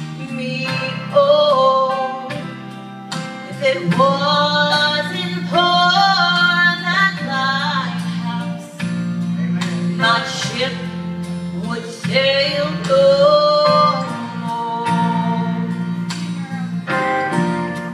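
A vocal trio of female and male voices singing a gospel song with instrumental accompaniment.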